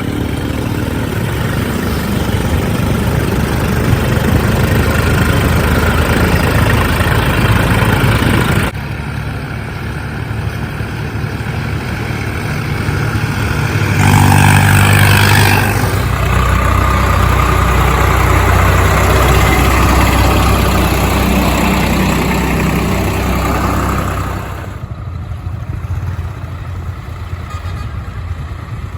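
Heavy diesel vehicles running on a highway: a Mahindra 575 DI tractor pulling a heavy sugarcane load, along with trucks. Several clips are cut together, so the sound changes abruptly a few times, and it is loudest about halfway through.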